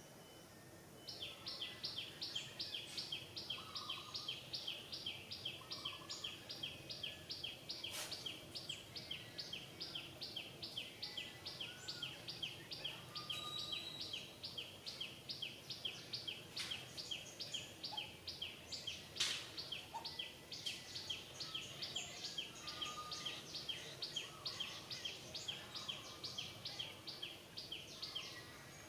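High-pitched rhythmic chirping from a small animal, about four chirps a second, starting about a second in and keeping an even pace until near the end. A few sharp clicks are heard over it.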